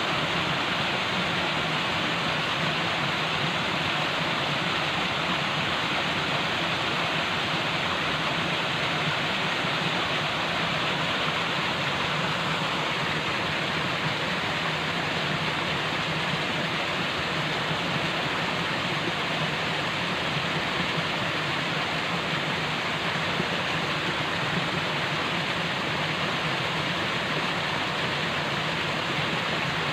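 Falling water rushing steadily, an even unbroken noise with no change in level.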